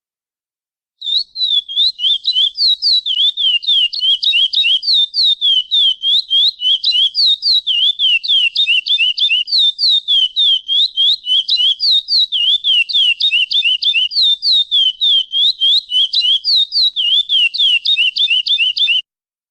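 Lesser seed finch (curió) singing the 'praia clássico' song: one long, unbroken phrase of rapid clear whistled notes, about five a second, alternately sliding down and up. It starts about a second in and stops shortly before the end.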